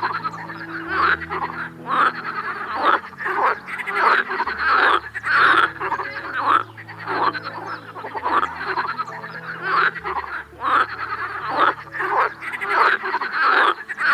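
Frog croaking over and over, a continuous run of rasping calls about one or two a second.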